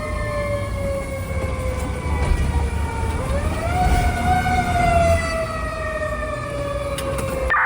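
Fire truck siren wailing: its pitch slides slowly down, swells back up about three seconds in, then slowly winds down again, over the low rumble of the truck.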